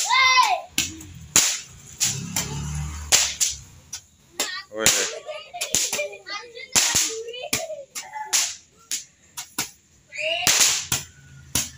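Fireworks going off: a rapid, irregular string of sharp bangs and cracks, sometimes several close together, from rockets and ground-fired tubes.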